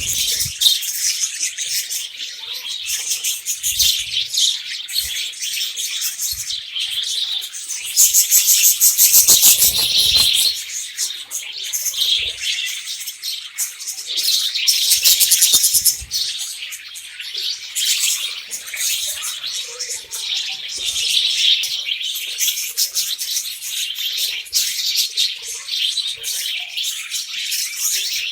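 Budgerigars chirping and chattering nonstop, with two louder spells of fast, buzzy chatter, one about a third of the way in and another a little past the middle.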